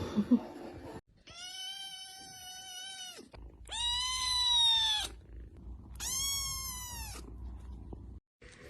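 A cat meowing three times in long, drawn-out calls of one to two seconds each; the second is the loudest and rises then falls in pitch.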